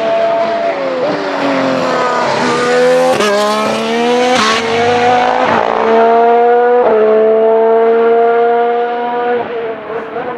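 Formula 1 car's 1.6-litre turbocharged hybrid V6 running at high revs, its pitch dropping about a second in, then climbing in steps through gear changes and holding high and steady before fading near the end.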